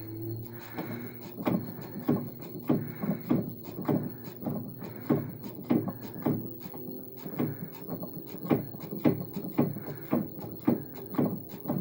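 Samsung WA5451ANW top-load washing machine running with uneven knocking, about two knocks a second, over a steady low hum.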